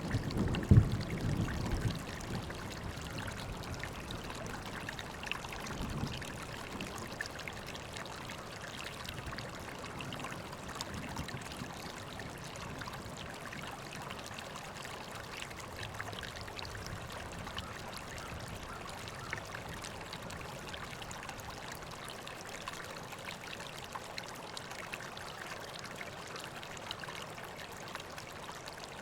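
River water flowing steadily, a constant rush and trickle. In the first two seconds a low rumble with a sharp thump about a second in, and a smaller low thump near six seconds.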